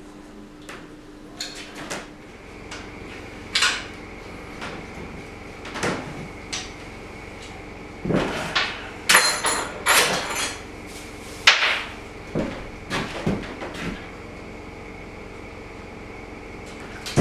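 Scattered metallic clinks, knocks and clatter of spanners, nuts and engine parts being handled while the cam covers and HT leads are taken off a Jaguar E-type six-cylinder engine, busiest about halfway through.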